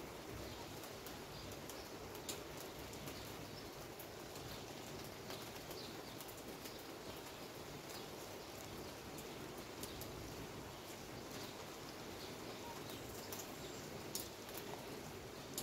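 Rain falling steadily, a constant hiss with scattered sharp taps of drops striking nearby surfaces, two of them a little louder about two seconds in and near the end.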